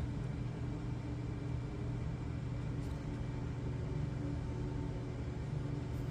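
Steady low background hum with a few faint constant tones in it, even throughout, with no distinct events.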